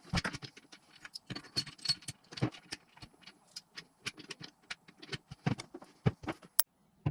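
Irregular clinks, taps and knocks of hand tools and metal engine parts being handled during engine assembly.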